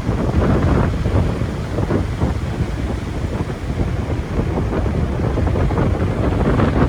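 Loud, gusty storm wind buffeting the microphone, a low rumbling rush that swells and eases from moment to moment.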